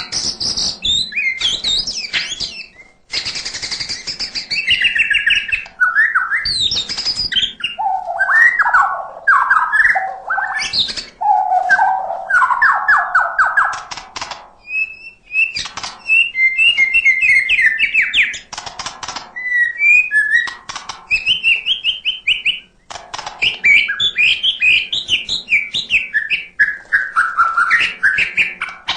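White-rumped shama singing continuously in fast, varied phrases of rapid trills and whistles with only brief pauses. This is a 'gacor' bird in full song, its phrases packed with 'isian', the calls of other birds it has learned.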